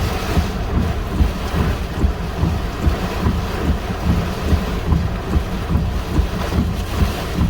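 Gusty storm wind buffeting the microphone: a steady rush of noise with constant low rumbling thumps as the gusts hit.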